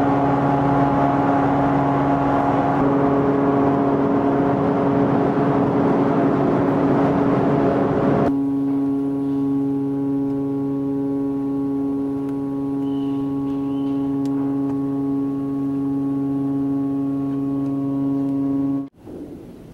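Steady mechanical drone holding one constant low pitch, with a rushing noise over it for the first eight seconds. It then continues cleaner and cuts off abruptly near the end.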